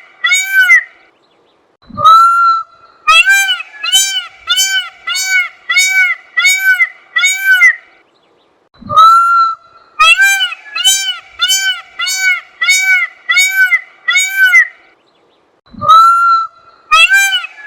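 Peacock calling: series of loud, nasal honking notes, about two a second, with a brief pause, a low thump and a longer opening call before each new series, repeating about every seven seconds.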